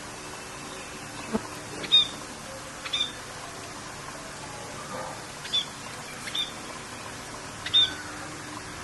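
A bird calling in about five short, high chirps spread across a few seconds, over a steady hiss of rain.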